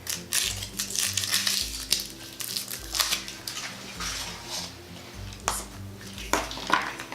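Foil wrapper of a Kinder Surprise chocolate egg crinkling and rustling as it is unwrapped, with several sharp crackles, over soft background music.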